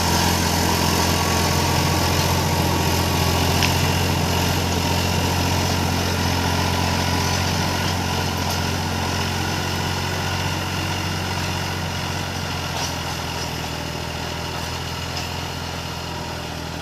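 Mahindra 295 DI Turbo tractor's diesel engine running steadily, growing gradually quieter over the last several seconds.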